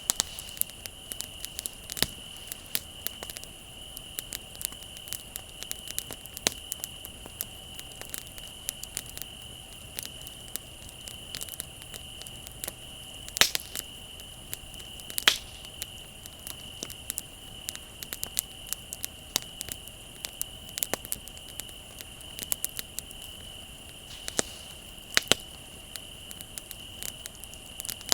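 Wood fire crackling with irregular snaps and pops, two louder pops about halfway through, over the steady unbroken trill of crickets.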